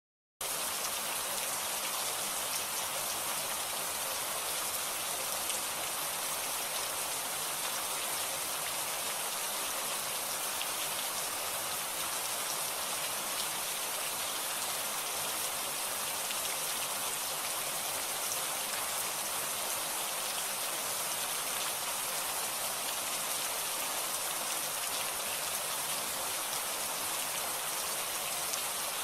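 Steady heavy rainfall, an even hiss of drops on surfaces, starting suddenly about half a second in.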